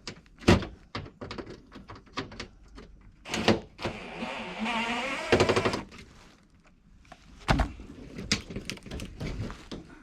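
A cordless impact driver runs for about two seconds, midway through, driving a screw through sheet metal and ending in a rapid hammering rattle. Several sharp knocks and clatters of metal and tools are handled around it.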